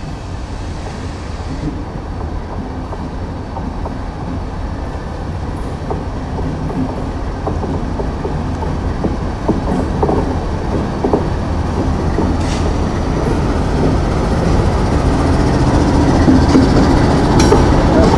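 Several diesel freight locomotives heading a loaded coal train approach and pass close by. Their engines make a low rumble that grows steadily louder, with a few sharp wheel clicks over the rails in the second half.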